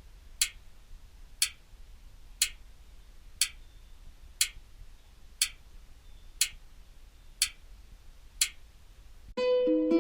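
Sharp, clock-like ticks, one each second, nine in all. Soft music with plucked notes starts suddenly near the end.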